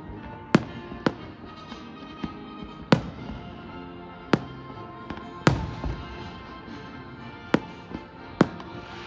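Aerial fireworks bursting: about eight sharp bangs at uneven intervals, the loudest near the start, about three seconds in, and about five and a half seconds in. Music plays steadily underneath.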